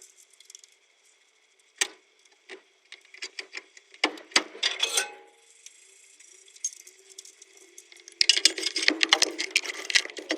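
Hand work on a truck gearbox: metal parts and tools clinking and knocking in single, scattered strikes, then a fast, continuous clatter of clicks starting about eight seconds in.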